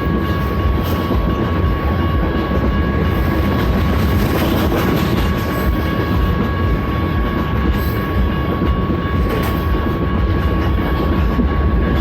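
BNSF freight train's cars rolling past on the rails, a loud steady rumble of wheels on track with a thin steady high whine over it.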